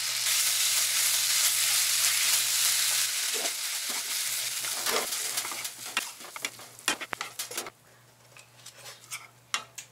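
Kimchi fried rice sizzling in a frying pan, with a utensil scraping and clicking against the pan as it is stirred. The sizzle drops away just before the last two seconds, leaving a few scattered clicks.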